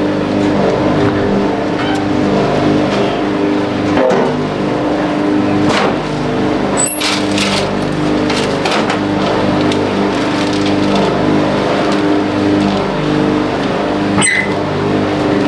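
A motor or engine running steadily at an even speed, with a few sharp knocks and clicks through it.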